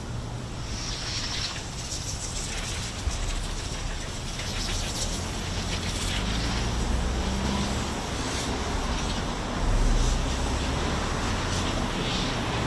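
Steady low rumble of city traffic, swelling briefly about ten seconds in.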